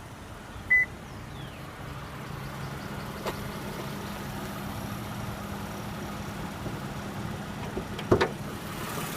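A 2014 Toyota Camry's 3.5-litre V6 idling steadily, with a single chime beep about a second in and two sharp clicks, around three and eight seconds in.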